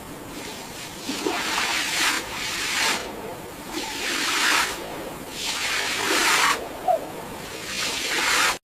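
A hissing spray, coming in about four surges of roughly a second each, with short pauses between them.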